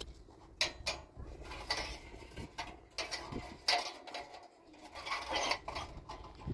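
Irregular metallic clinks, scrapes and rattles of hard objects being handled, in short bursts about every half second to a second.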